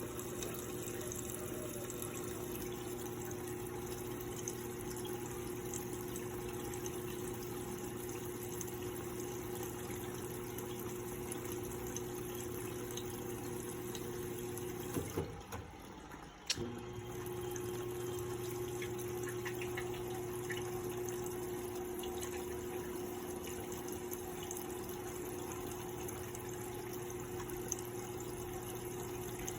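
Electrolux LPE16 top-loading washing machine filling with water under its automatic level control: rushing water with a steady hum. About halfway through, the hum cuts out for a second or two with a couple of clicks, then starts again.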